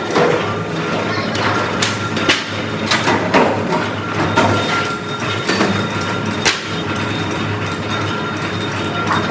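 Factory floor noise: a steady machine hum with a thin whine above it, broken by irregular sharp knocks and clatter of work on metal parts.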